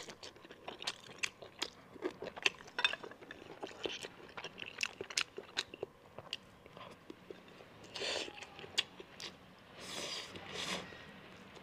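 Close-miked chewing of rice and braised monkfish offal: many short wet mouth clicks and smacks, with a few longer breathy sounds in the second half.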